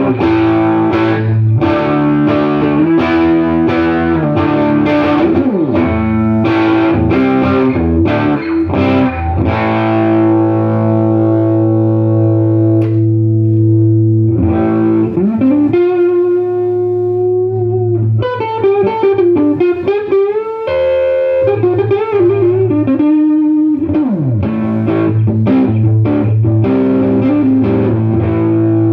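Electric guitar played through a 1968 Fender Super Reverb tube amp. Rhythmic strummed chords give way, about halfway through, to held single notes with bends and vibrato, then chords again near the end.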